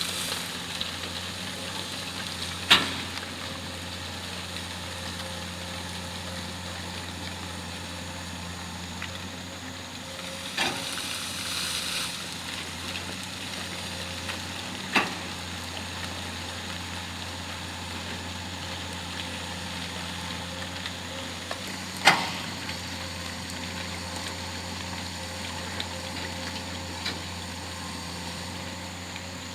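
Excavator diesel engine running steadily, with a few sharp knocks standing out above it, the loudest about three seconds in and again about twenty-two seconds in, and a brief hissing rush about ten seconds in.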